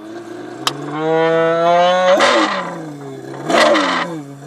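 A man imitating a Lamborghini Aventador's engine with his voice: a revving hum that climbs in pitch, then breaks with a rasp and drops twice, like gear changes, before settling into a lower steady hum.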